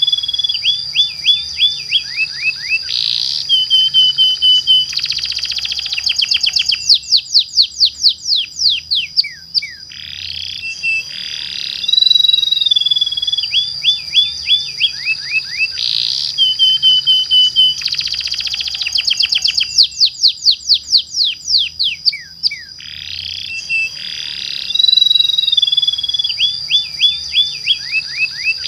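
Domestic canary singing: high whistled notes, rapid trills and long rolls of fast falling sweeps, over a steady high tone. The same sequence of phrases comes round about every 12 seconds, as in a looped lure recording.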